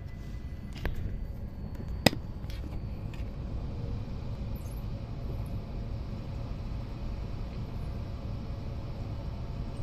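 Steady low hum inside an E5 series Shinkansen car standing at the platform, with two sharp knocks about one and two seconds in.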